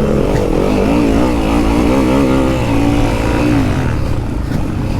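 Enduro motorcycle engine revving under riding load, its pitch rising and falling repeatedly as the throttle is worked, easing off near the end.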